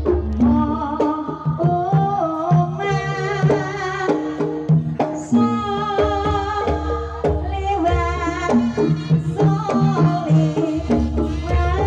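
A sinden, a female Javanese singer, sings long melismatic notes with wide vibrato over Javanese gamelan music with hand drumming.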